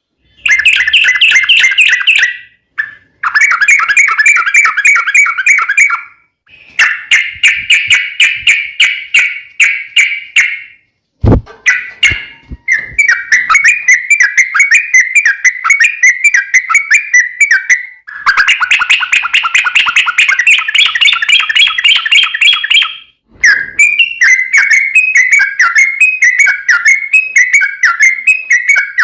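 Yellow-vented bulbul (trucukan) singing long runs of rapid, bubbling chattering notes, in phrases a few seconds long with short pauses between them. There is a single sharp click about eleven seconds in.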